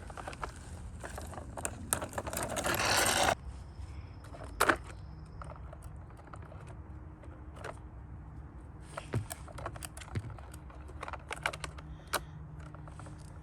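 Toys being handled and moved about: scattered plastic clicks, knocks and rattles, with a rushing noise that builds and cuts off suddenly about three seconds in.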